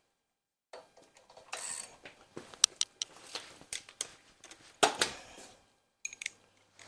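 Metal hand tools clicking and knocking against engine parts in irregular bursts, with a short scrape about one and a half seconds in and a louder metallic knock about five seconds in.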